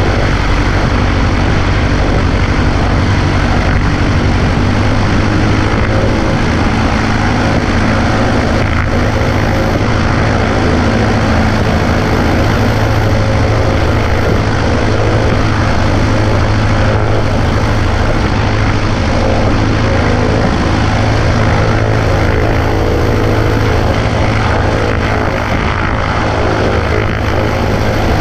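Cessna 140A's engine and propeller droning steadily in flight, under heavy wind rush, loud and unchanging.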